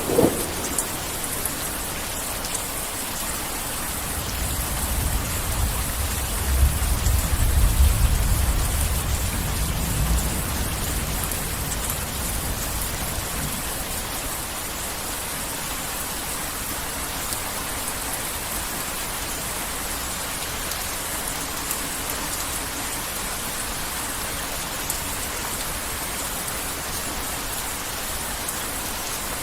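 Heavy rain falling in a steady hiss. A low roll of distant thunder swells a few seconds in and fades away before the middle.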